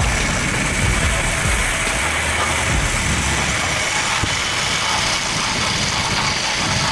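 Heavy truck engine running steadily, with a low rumble under a constant noisy wash.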